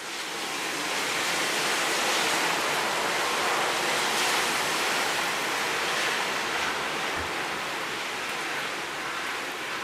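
Heavy rain and wind of a typhoon: a steady rushing hiss.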